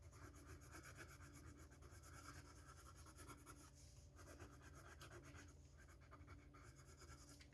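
Faint scratching of a coloured pencil shading on paper, in repeated strokes with short pauses, over a steady low hum.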